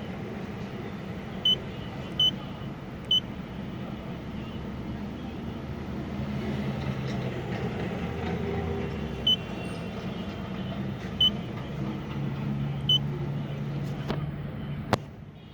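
Mercedes-Benz S600's V12 engine idling steadily, with six short high beeps scattered through it and two sharp clicks near the end.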